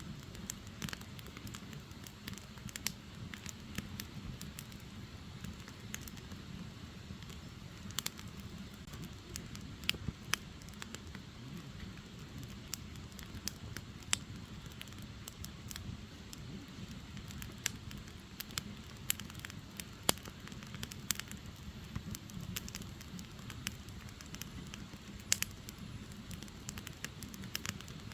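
Firewood burning: a steady low rumble of the fire with irregular sharp crackles and pops from the logs, a few of them much louder than the rest.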